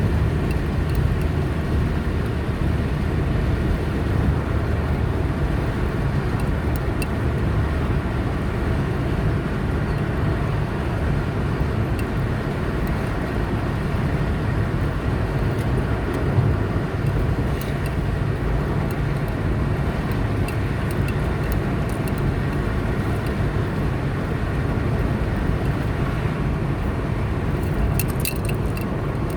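A car driving at steady speed: an even engine hum and tyre road noise, with a few faint clicks near the end.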